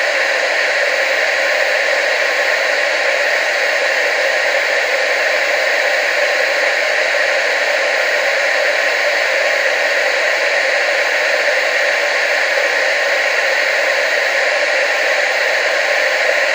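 TV static: a steady, unbroken hiss, strongest in the middle and upper range, with little bass.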